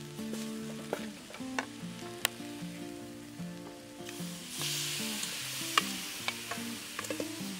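Sliced lemongrass sizzling in a hot metal wok, stirred with a wooden spoon that knocks against the pan several times. About four seconds in, raw fish pieces are tipped into the wok and the sizzling gets louder. Soft background music runs underneath.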